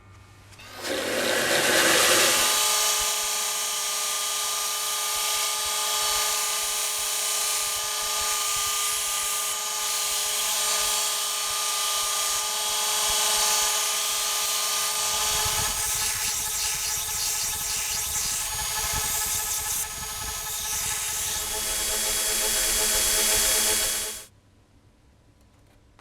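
Electric power tool motor spinning up about a second in, then running steadily with a steady whine, likely working the knife blade. The sound turns rougher and lower past the middle and cuts off suddenly near the end.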